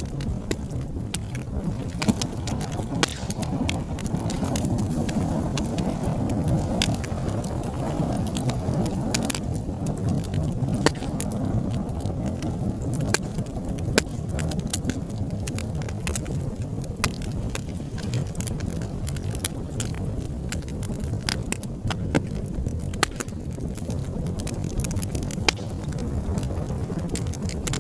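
Wood fire in a fireplace crackling: a steady low rumble of flames with frequent irregular sharp pops and snaps, a few of them much louder than the rest.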